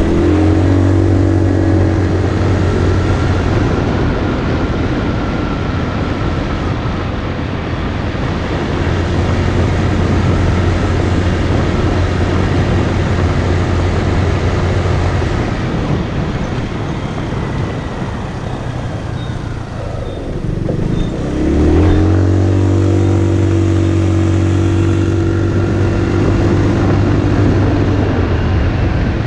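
Motorcycle engine running steadily under way, with a continuous rush of noise over it. About three-quarters of the way through the engine note dips and falls, then rises again as it revs back up and holds.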